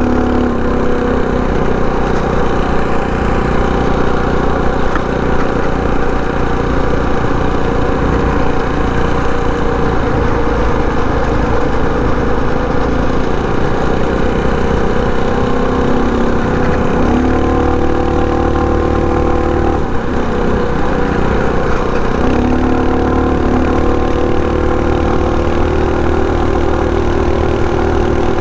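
Predator 224 single-cylinder four-stroke engine on a mini bike running hard under throttle while riding up a hill. Its pitch dips and climbs back twice about two-thirds of the way through.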